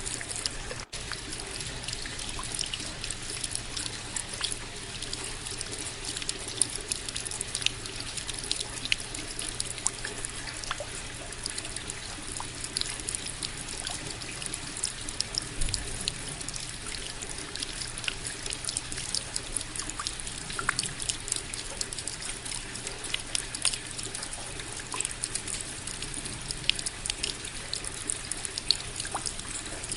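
Steady rain falling, a constant hiss scattered with many sharp individual drop ticks. A split-second dropout comes about a second in.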